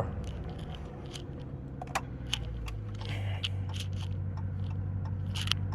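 Dodge R/T's naturally aspirated Hemi V8 idling steadily, heard from inside the cabin, settling after a rev, with scattered light clicks and rattles.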